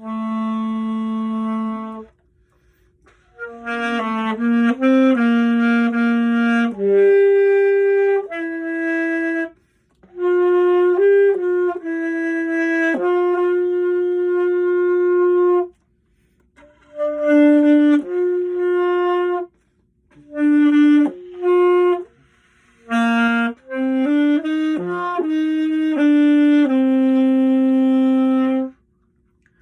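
Unaccompanied saxophone playing a melody in short phrases of separate held notes. There are brief silent breaks for breath between phrases, about six times.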